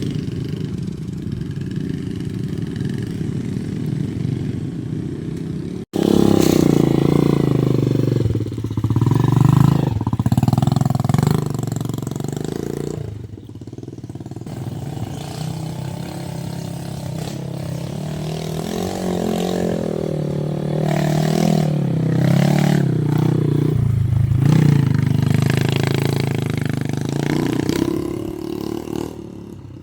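Motorcycle engine running, its pitch rising and falling as it revs. The sound breaks off for an instant about six seconds in, then comes back louder and more uneven.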